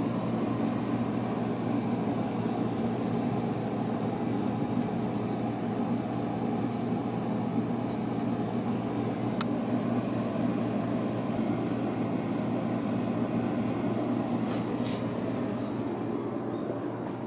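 Steady low machine hum with an even noisy rush, and a single sharp click about nine and a half seconds in.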